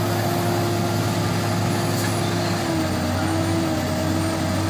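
A large vehicle's engine running steadily. Its pitch drops a little a bit over halfway through.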